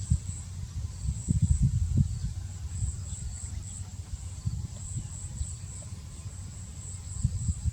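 Insects chirring in a high, even pulsing drone, over irregular low thumps and rumbling.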